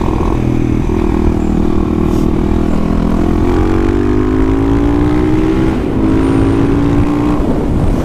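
Supermoto motorcycle engine running under way, its pitch climbing steadily through the middle as it accelerates, then falling away about seven seconds in.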